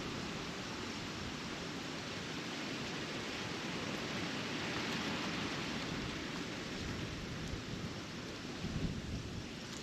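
Wind blowing over the microphone: a steady rushing noise with low rumbling buffets, swelling a little around the middle and with a gust just before the end.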